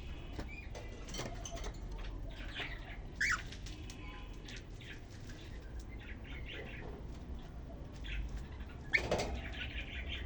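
Cockatiels twittering: scattered short chirps and whistled notes, with a loud brief chirp about three seconds in and a louder burst near nine seconds.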